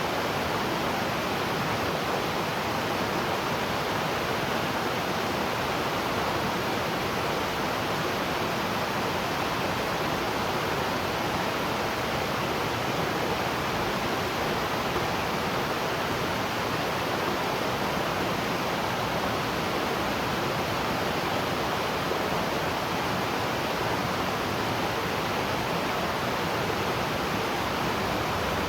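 A waterfall rushing: steady, even water noise with no change in level.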